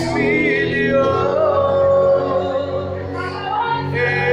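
A worship song sung with musical accompaniment, with long held notes that waver in pitch.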